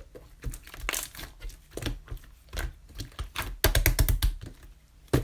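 Clear slime being pressed and squeezed by hand, giving irregular wet clicks and pops, with a quick dense run of them about three and a half seconds in and one sharp pop near the end.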